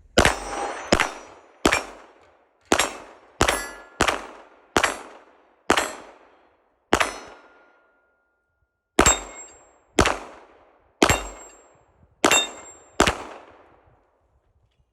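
Canik Rival-S 9mm pistol firing about fourteen shots in a steady string, with a pause of about two seconds halfway. Several shots are followed by the ring of steel targets being hit.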